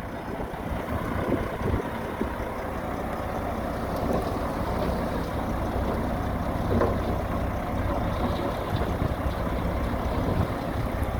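Heavy earthmoving machine's diesel engine running steadily with a low, even hum.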